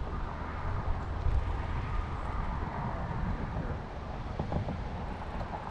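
Road traffic on the highway rumbling past, a steady low drone of vehicles.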